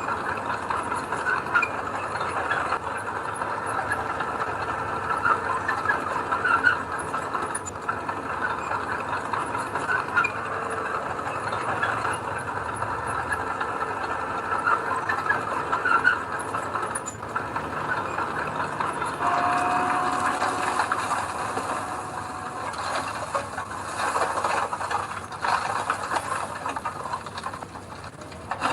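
Heavy diesel earthmoving machinery at work: an engine running with metallic squeals and clanks throughout, and a brief steady whine about two-thirds of the way in.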